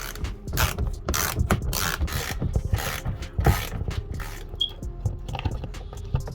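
Hand-tool work on the car, a ratchet wrench clicking and turning in short irregular bursts, with background music beneath.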